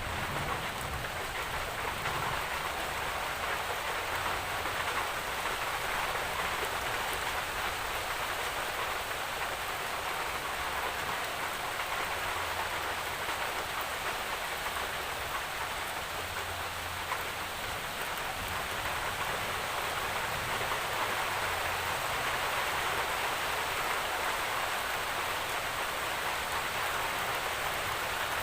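Steady rain falling, an even, continuous hiss of drops.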